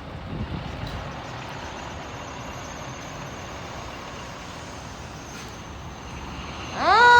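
Steady road traffic noise, then near the end a fire truck siren switches on, its pitch climbing quickly and then holding as it gets much louder.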